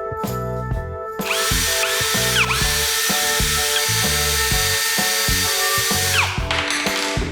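Power drill running over background music. Its motor whines up about a second in, briefly winds down and spins up again, runs steadily for several seconds, then winds down.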